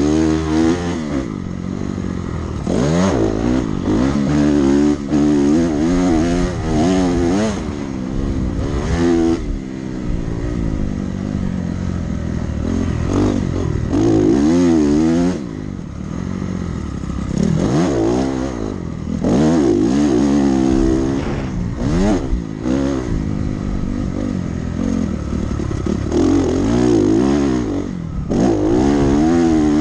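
Dirt bike engine being ridden hard, revving up and down over and over as the throttle is opened and closed every second or two, with louder surges every few seconds.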